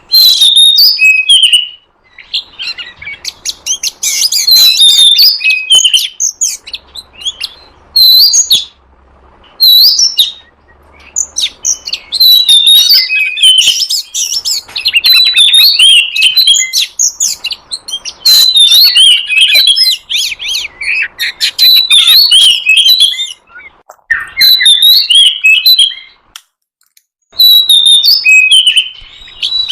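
Oriental magpie-robin singing: loud, rapid, varied whistles and chattering phrases, delivered in bursts broken by short pauses (about 2 s in, around 9 s, and near 24 and 27 s).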